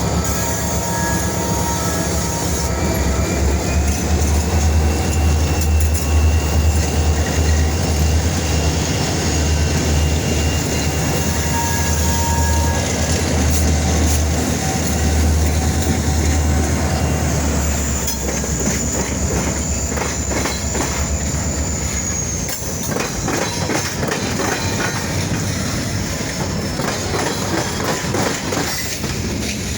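EMD GP-series diesel locomotives rolling past with a heavy low engine drone, then the train's cars clattering over the rail joints. A high, thin wheel squeal sounds for a few seconds about two-thirds of the way through.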